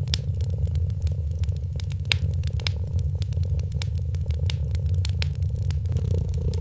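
Fireplace fire crackling with frequent short, sharp pops over the steady low purr of a cat.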